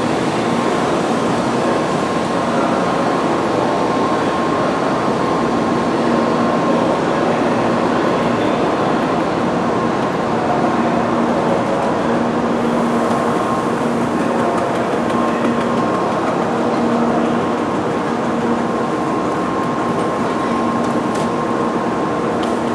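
Steady hum and whir of a stationary N700 series shinkansen standing at the platform, its on-board equipment running, with a constant high tone and a lower tone that comes and goes.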